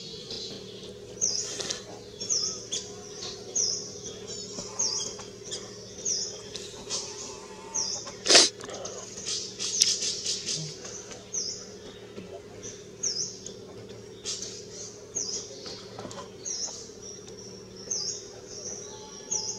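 A bird chirping over and over, short high calls a little over one a second. A single sharp crack about eight seconds in.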